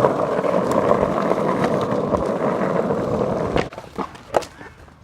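Skateboard wheels rolling on pavement, a steady rolling noise that cuts off abruptly about three and a half seconds in, followed by a couple of sharp knocks.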